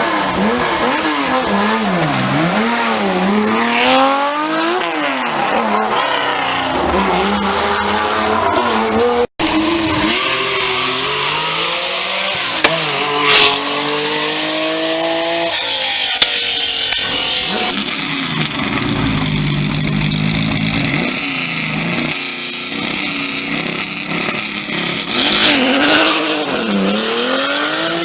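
Porsche 911 rally car's flat-six engine revving hard, its pitch climbing and dropping again and again through gear changes and lifts, with tyre squeal. A short break about nine seconds in.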